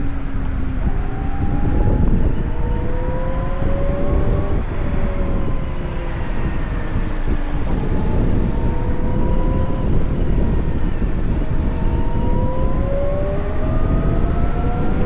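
Wind buffeting the microphone on a moving VMoto Stash electric motorcycle, over the whine of its electric motor. The whine climbs as the bike speeds up, sinks as it slows, holds level for a few seconds, then climbs again near the end.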